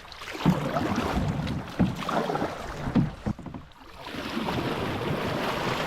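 Canoe being paddled on a river: paddle strokes and water washing along the hull, with a few hollow knocks in the first half and a rising rush of water near the end.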